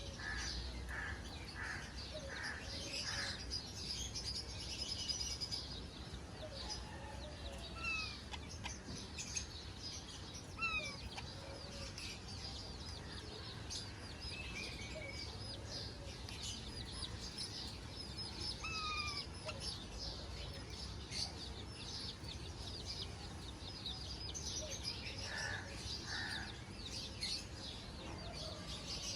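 Parrots chirping and chattering: a steady stream of many short, high calls with occasional brief falling whistles.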